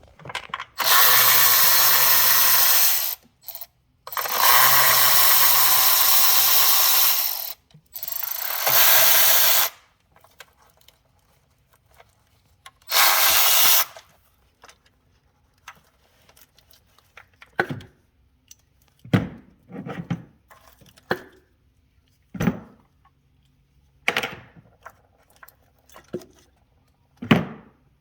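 A power tool runs in four bursts of one to three seconds each, then stops. Scattered single clinks and knocks of tools and metal parts being handled follow.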